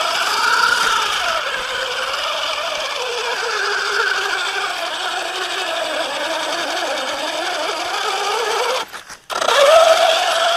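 1/8-scale RC monster truck's motor and drivetrain whining, its pitch rising and falling as the throttle is worked. The sound briefly cuts out near the end, then comes back.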